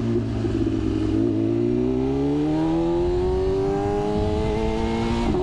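BMW S1000RR inline-four sport motorcycle engine running under the rider, steady at first, then rising in pitch as it accelerates for about three seconds before the pitch drops sharply near the end.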